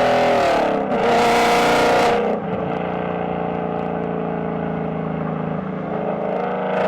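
American V8 engine being revved: the revs fall away at the start, it is blipped again about a second in, and from about two and a half seconds it settles to a steady idle.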